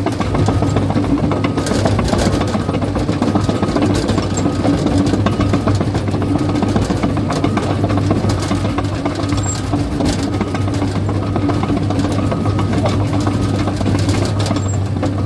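Caterpillar bulldozer's diesel engine running steadily, with scattered clanks and knocks from its steel tracks.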